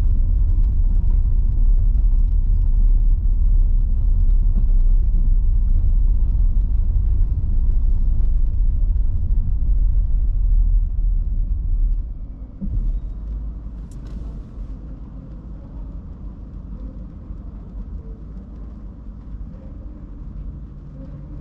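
Car driving on wet roads in heavy rain: a steady low rumble of tyres and road with a patter of fine ticks. About twelve seconds in the rumble drops sharply and a quieter, steady noise remains.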